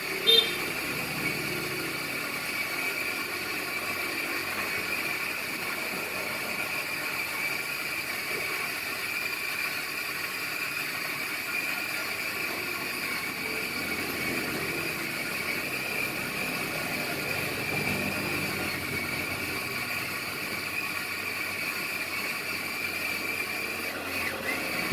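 A machine running steadily with a high, even whine made of several steady tones, with a short knock just after the start.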